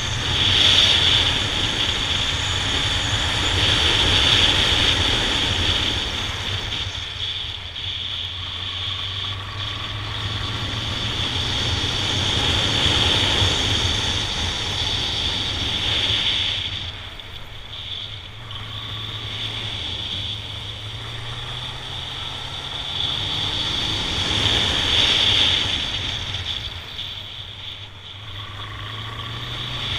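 Honda Nighthawk 750 motorcycle's inline-four engine under way, pulling harder and easing off several times, so its pitch and loudness rise and fall, with steady wind noise on the microphone. The engine pitch climbs again near the end.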